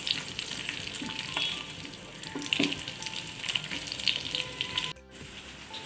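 Cauliflower florets sizzling as they fry in hot oil in a nonstick wok, stirred with a silicone spatula that scrapes and clicks against the pan. The sound drops out briefly about five seconds in and comes back quieter.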